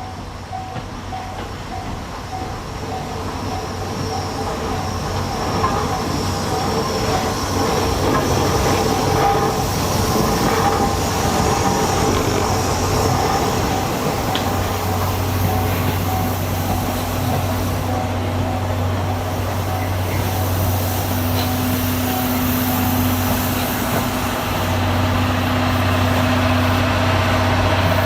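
A locomotive-hauled train approaching and running past, growing louder over the first several seconds and then holding steady, with a continuous low hum.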